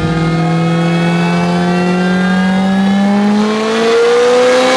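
The 2.0-litre 16-valve turbocharged four-cylinder engine of a VW Golf Mk1 running on a chassis dyno, rising slowly and steadily in pitch as it pulls up through the revs in a dyno run.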